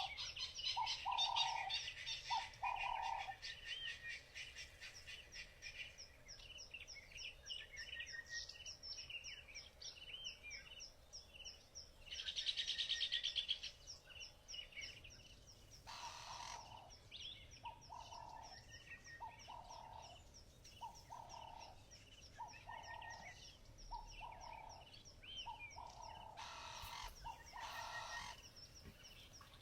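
Birds chirping and trilling in quick, overlapping calls, with a louder trill about twelve seconds in. A lower call repeats about once a second, early on and again from about halfway through.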